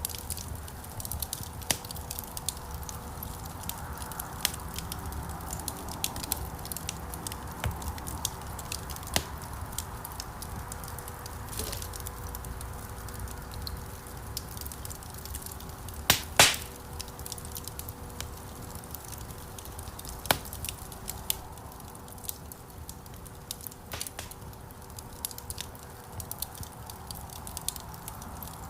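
Wood fire burning in a fireplace: frequent small irregular crackles and snaps over a low, steady flame noise, with one loud double pop a little past halfway.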